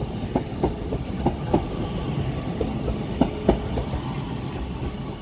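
Class 331 electric multiple unit pulling out of the station, a low rumble with its wheels clicking over rail joints, the clicks often coming in close pairs as each bogie crosses.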